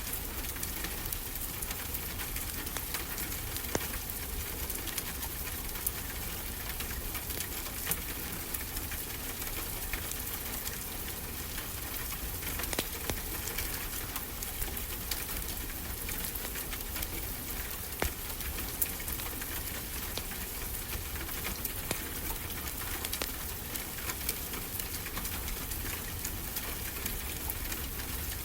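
Wood fire crackling, with scattered sharp pops, over a steady hiss and low rumble of ocean surf.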